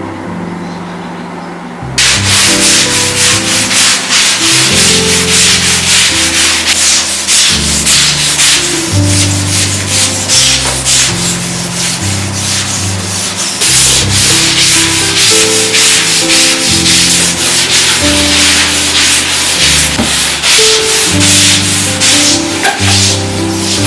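A stiff brush scrubbing a bathroom surface with fast, rhythmic back-and-forth strokes. It starts abruptly about two seconds in and goes on without a break, with light acoustic guitar music underneath.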